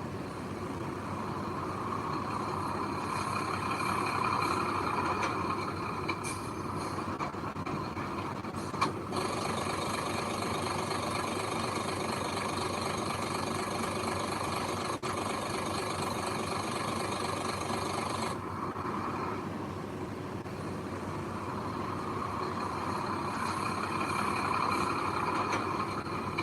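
Heavy machine engine running steadily, with a sharp click about nine seconds in.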